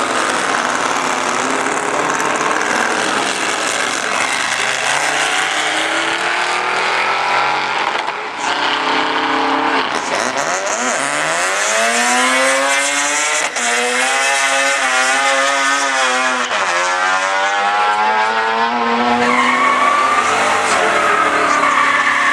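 Muscle car doing a burnout: its engine revs hard, the pitch climbing steeply, holding high, then dropping back before climbing again near the end, over the steady hiss and squeal of spinning tyres.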